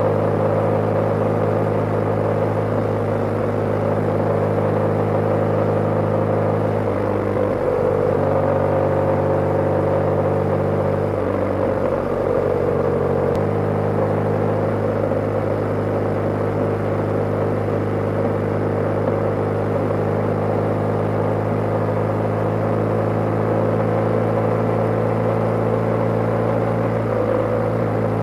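BMW G/S motorcycle engine running at a steady cruising pace. Its note shifts briefly twice, about a quarter of the way in and again near the middle, then settles back to a steady drone.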